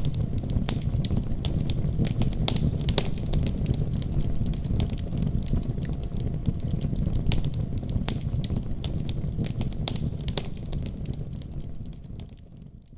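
Wood fire burning in a fireplace: frequent sharp crackles and pops over a steady low rumble of flames. It fades out near the end.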